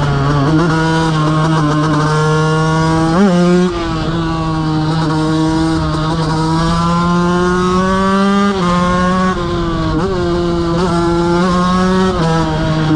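KTM 125 motorcycle's single-cylinder engine running hard at high revs, its pitch holding high with a few sudden steps as the gears change and a quick rev blip about three seconds in.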